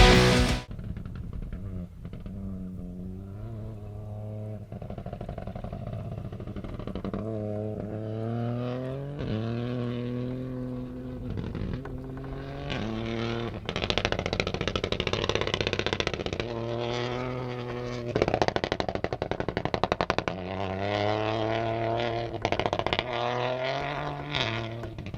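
Peugeot 208 Rally4's turbocharged three-cylinder engine revving hard under acceleration. The pitch climbs and drops sharply again and again as it shifts through the gears, with a clattering rattle over the later part.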